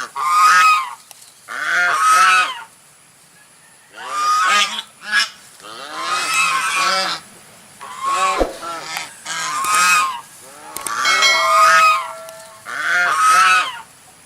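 A large bird calling loudly and harshly about nine times, each call under a second to about a second and a half long, some coming in quick pairs, with a pause of about a second after the first pair.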